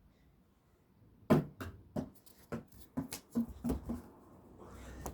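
A basketball bouncing on a hard floor: a loud first bounce about a second in, then a quick run of about ten knocks, roughly three a second, that fade out. A low steady hum comes in near the end.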